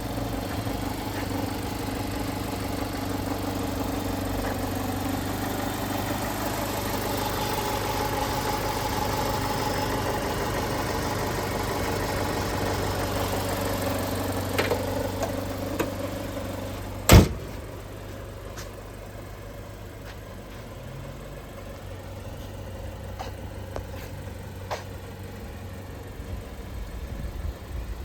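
Mitsubishi Space Runner 2.4 GDI's four-cylinder petrol engine idling steadily. About 17 seconds in there is a single sharp knock, and after it the engine sound drops away, leaving a quieter background with a few faint clicks.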